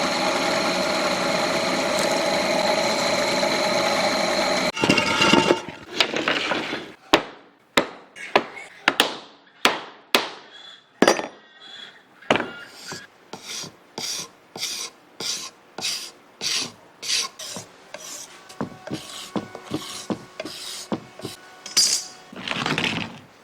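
A power tool runs steadily for about five seconds, then cuts off suddenly. It is followed by a long series of hand rasping strokes, a file or abrasive worked back and forth over a workpiece at about two strokes a second.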